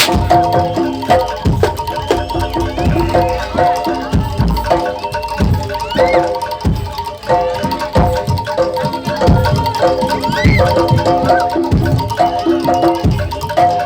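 Jaranan dor ensemble playing: pitched gamelan metallophones ring a fast repeating figure over regular deep drum beats.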